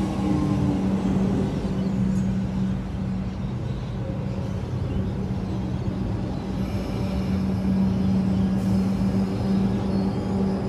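Train running at the station: a steady low hum over a rumble.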